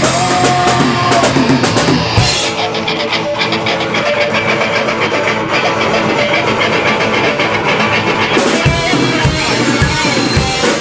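Rock music with a drum kit and guitars. The cymbals drop out about two seconds in and come back near the end.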